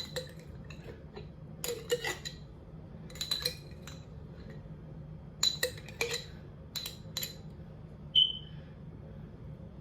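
Kitchenware clinking and tapping in small scattered clusters while chicken is seasoned, with one short ringing clink a little after eight seconds.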